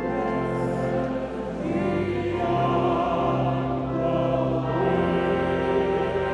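Choir singing a hymn in long held chords over a steady low bass note.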